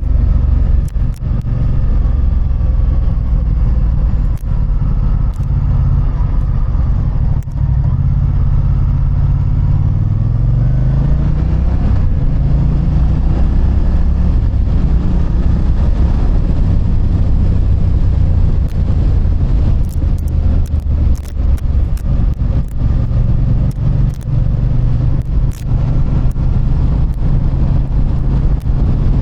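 Motorcycle engine running under way, heard from the rider's point of view, with a steady low rumble. About ten seconds in, the engine pitch climbs as it accelerates, then settles again; several brief clicks come through in the second half.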